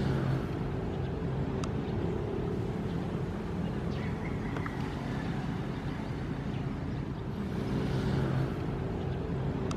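Ocean waves: a steady low rumble of surf, with a wave washing in near the start and another about eight seconds in.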